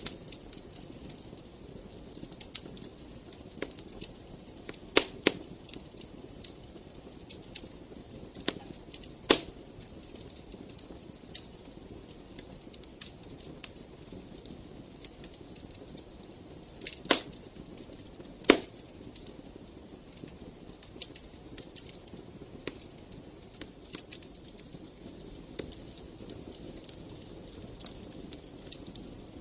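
Wood fire in a fireplace crackling, with frequent small irregular snaps over a low steady rush and a few louder pops.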